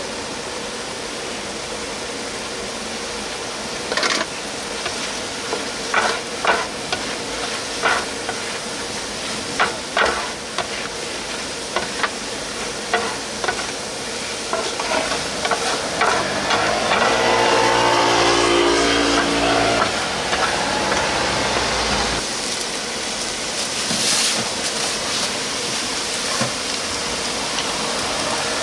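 Food sizzling on a hot pan while being stir-fried, with sharp clicks from a spatula striking the pan. A low hum swells for a few seconds past the middle.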